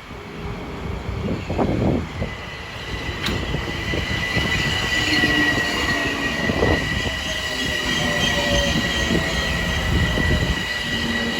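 Metro-North M7A electric multiple-unit train rolling into the station. A steady high squeal from the wheels and brakes sets in about two seconds in, over the rumble of the cars and a lower whine that falls slowly in pitch as the train slows.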